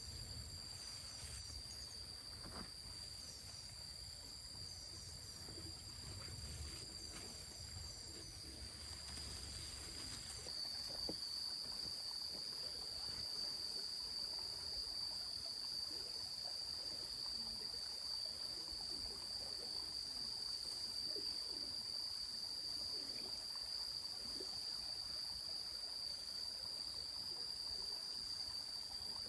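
Insects chirring in one steady, high, even drone that grows louder about ten seconds in.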